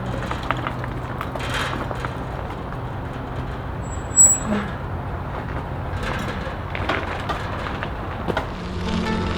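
Steady rumbling noise of a bicycle rolling along a trail, with scattered light clicks and one short high chirp about four seconds in.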